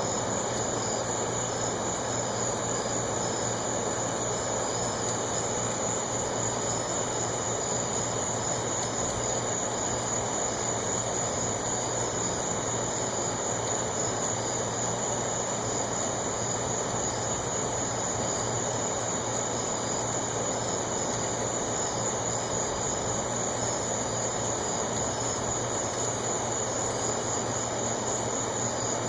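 Steady chorus of night insects, crickets, chirring in a continuous high trill, over an even background hiss and a constant low hum.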